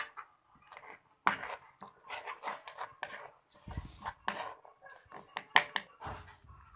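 Homemade slime of white glue and liquid soap being stirred and folded in a container: irregular sticky clicks and scrapes of the stirrer against the container.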